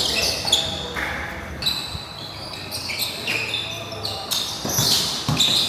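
Pickup basketball play: sneakers squeaking on the court in short high squeals, with the ball bouncing and a few players calling out faintly.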